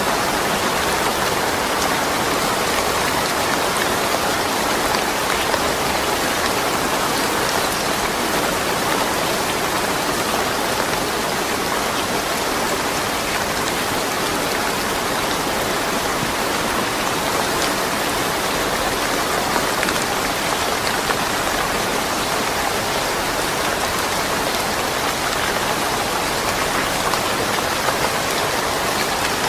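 Steady rain falling, with no thunder.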